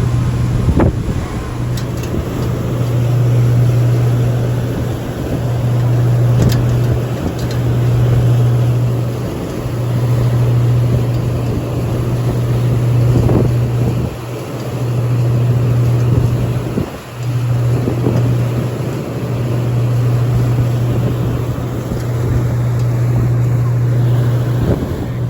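High-speed passenger ferry under way at speed: a steady low engine hum under a loud rush of wind and water that swells and eases every few seconds.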